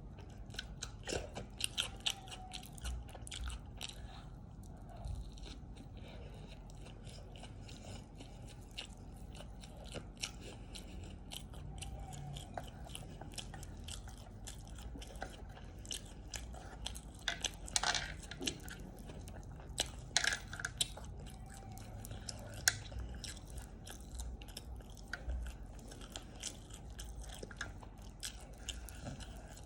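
Close-miked mouth sounds of a person eating, biting and chewing with irregular wet clicks and some crunching.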